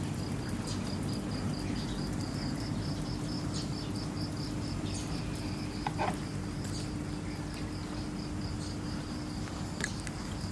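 An insect chirping in a fast, even pulse, about five chirps a second, over a steady low hum.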